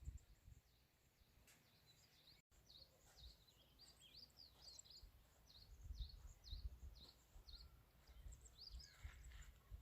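Faint birdsong: a songbird repeating short, quick chirping notes over a faint low rumble.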